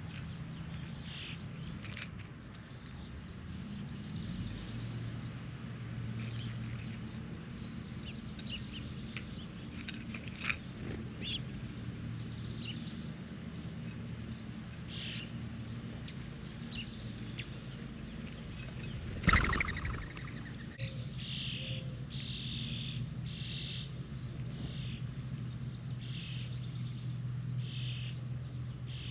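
Backyard birds chirping with short calls repeated throughout, over a steady low hum. About two-thirds of the way through, a single loud knock.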